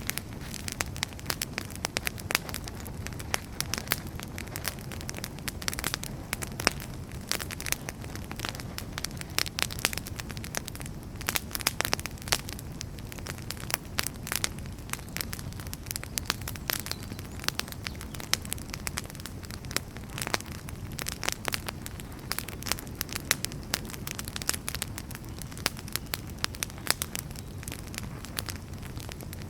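Wood fire burning in a fireplace: dense, irregular crackling and sharp pops from the burning firewood over a steady low rush of the flames.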